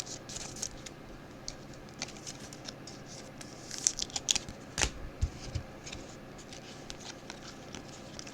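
Trading cards being handled and slid against one another, with light scraping and small clicks, busiest midway, where there is one louder knock.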